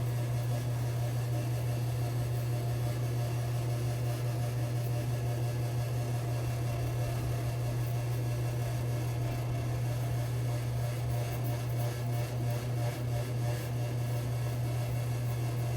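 A steady low mechanical hum, with faint short scraping strokes of a safety razor against stubble over it, mostly in the second half.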